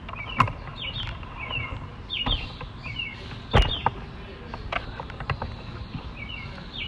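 A small bird chirping over and over, short high calls about every half second. A few sharp knocks come in between, the loudest about three and a half seconds in.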